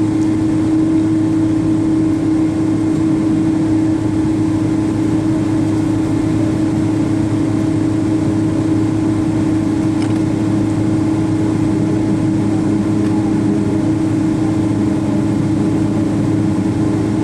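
Steady cabin noise inside a Boeing 777-200 on the ground: an even hum with one strong constant drone and a lower steady rumble beneath it, holding level with no rise in power.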